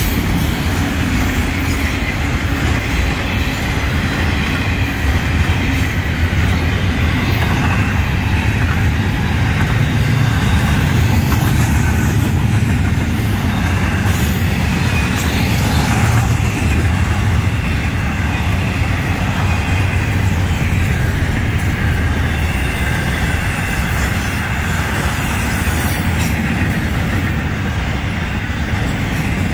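Florida East Coast Railway freight train's cars rolling past at speed: a steady, loud rumble of steel wheels on rail, as autorack cars give way to double-stack container well cars.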